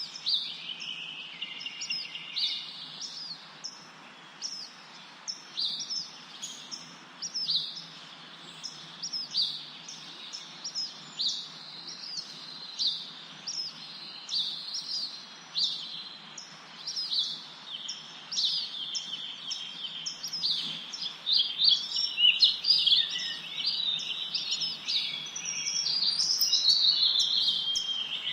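Small songbirds chirping, a steady run of short high chirps about once or twice a second, with a longer warbling song near the end.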